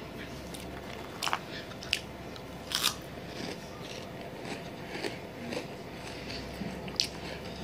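Crunchy Flamin' Hot Cheetos being bitten and chewed: a few loud, sharp crunches in the first three seconds and another near the end, with softer chewing between.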